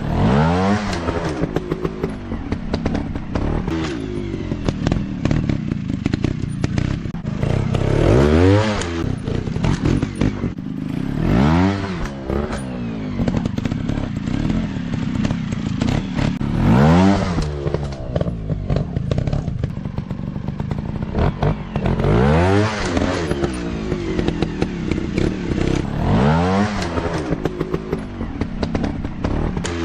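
Off-road dirt bike engine running under throttle, revving up and dropping back about six times, several seconds apart, with lower running between the revs.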